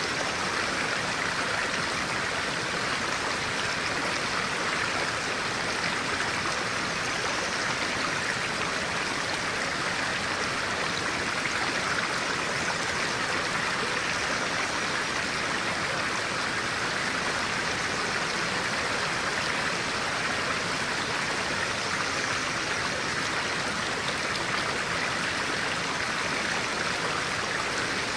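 Stream of clear water running steadily over rocks, an even, unbroken rush with no pauses.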